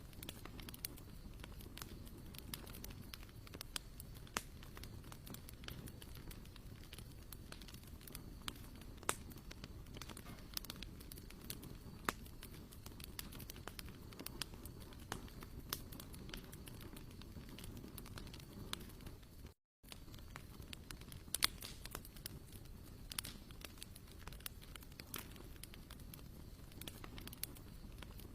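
Wood campfire crackling: irregular sharp pops and snaps over a low steady rumble. The sound cuts out for a moment about two-thirds of the way through.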